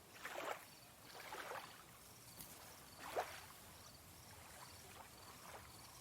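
Faint lake water lapping and splashing softly, three gentle swells in the first few seconds.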